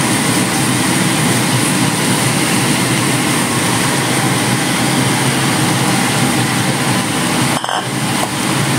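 Shredded chicken, onion and garlic sizzling in hot oil in a frying pan: a steady sizzle, broken by a brief drop a little before the end.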